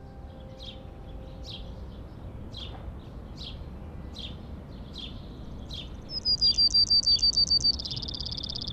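Songbirds calling: a short chirp repeated about twice a second, then about six seconds in a louder, rapid trill, followed near the end by a faster buzzy trill. A low steady rumble of background noise lies underneath.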